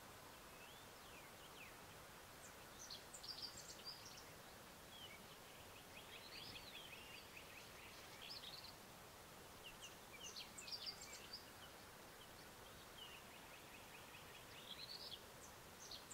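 Faint bird calls: short clusters of high chirps and chatter, about five of them a few seconds apart, over a steady background hiss.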